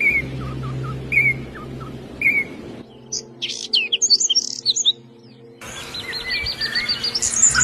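Songbirds chirping and calling, in several spliced recordings. First comes a short call repeated about once a second over a low steady hum. Near the middle it cuts to a quick burst of high chirps, then to a fast trill of rapidly repeated notes that rises higher near the end.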